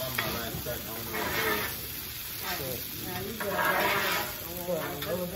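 Food sizzling on a hibachi griddle while it is stirred, a steady frying hiss that swells in short patches, with voices talking underneath.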